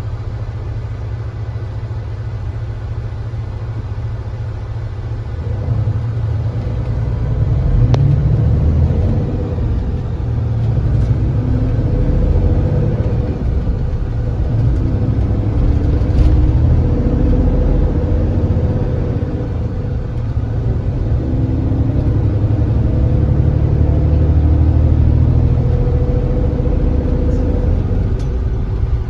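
Kia Granbird Sunshine coach's engine running with a steady low drone, then from about six seconds in pulling harder, the drone swelling and easing several times as the bus accelerates.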